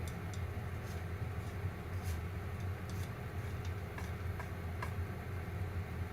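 Popcorn kernels popping sporadically, sharp single pops at uneven intervals, over a steady low hum of the cooking appliance.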